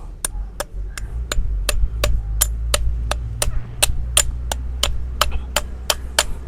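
Farrier's hammer tapping in an even rhythm, about three sharp strikes a second, over a steady low hum.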